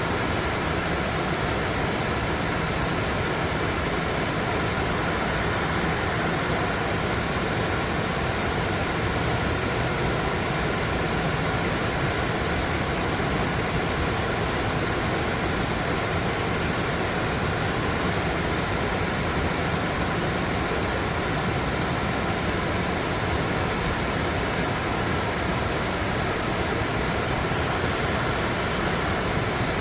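Rushing water of a small waterfall, a steady, even rush.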